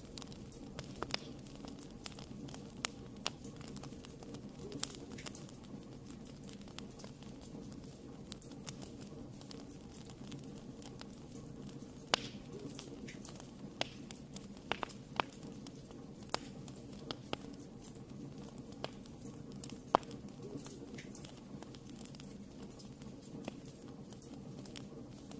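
Wood fire in a fireplace crackling: irregular sharp pops and snaps over a steady low rumble of the burning fire, with a louder pop about twelve seconds in and another near twenty seconds.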